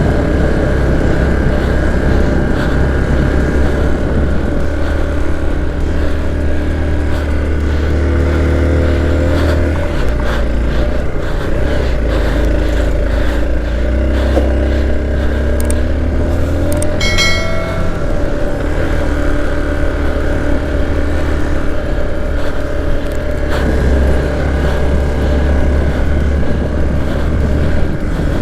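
Motor vehicle engine running while driving over rough ground, with a steady low rumble and engine pitch slowly rising and falling. A brief high-pitched tone sounds about two thirds of the way through.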